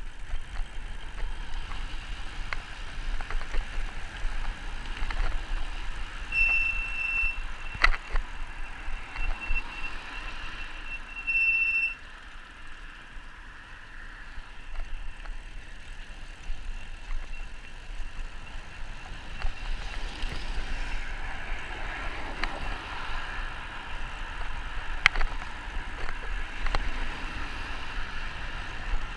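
Riding noise from an e-bike on a towpath: wind rumble on the microphone and rolling noise, with a few sharp clicks. A high, steady squeal sounds twice, briefly about six seconds in and again for about three seconds from nine seconds.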